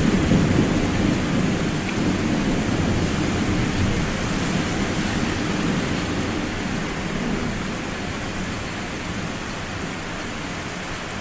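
Rolling thunder rumble fading away after a nearby clap, over steady rain.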